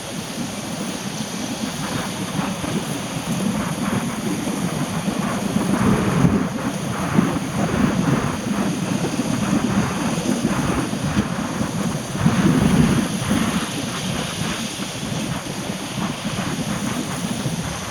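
Steady rain falling, with a low rumble and wind noise on the microphone.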